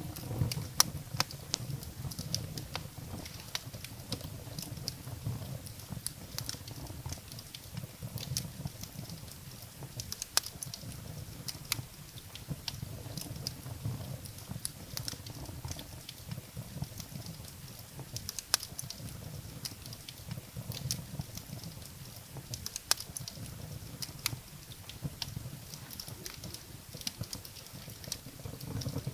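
Wood fire burning in a fireplace: irregular sharp crackles and pops from the burning firewood over a low, steady rumble of the flames.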